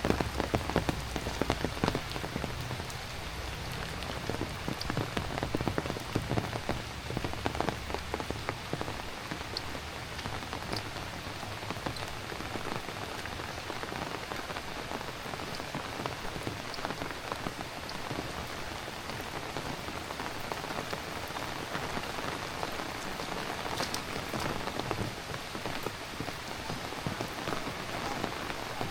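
Heavy rain falling steadily, with many close drops striking, thickest and loudest in the first few seconds.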